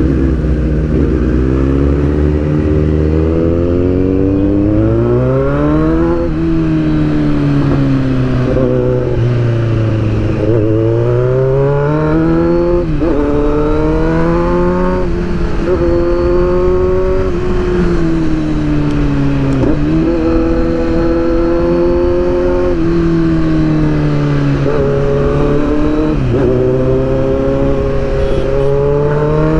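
Motorcycle engine heard from the bike itself, accelerating hard and rising in pitch for a few seconds at a time, with a sudden drop at each upshift. Now and then it winds down more slowly as the bike slows. Wind rushes steadily underneath.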